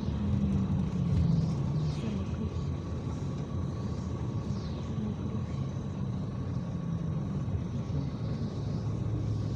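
IVECO Crossway 13M PRO city bus under way, heard aboard: a steady low engine and road rumble, the engine note shifting in pitch a few times.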